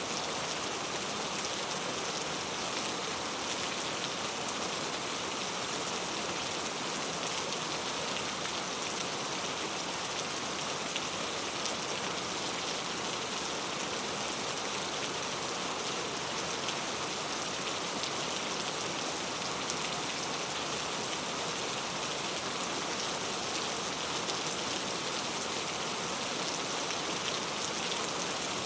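Steady rain, an even hiss of falling drops with faint scattered patters of drops on a surface.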